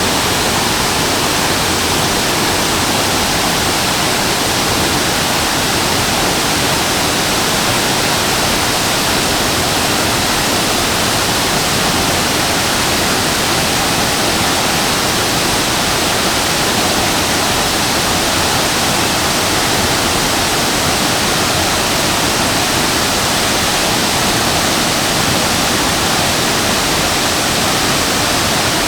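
Shasui Falls waterfall pouring down, a steady dense rush of falling water with no change in level.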